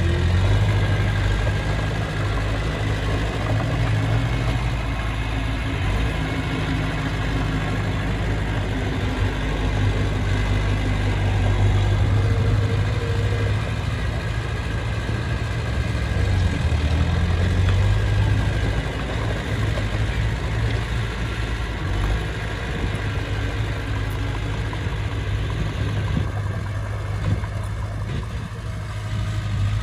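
Bulldozer's diesel engine running steadily at working speed, its pitch shifting slightly up and down as it pushes soil.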